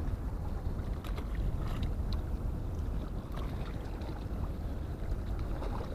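Steady low rumble of wind buffeting the microphone, with a few faint clicks and taps.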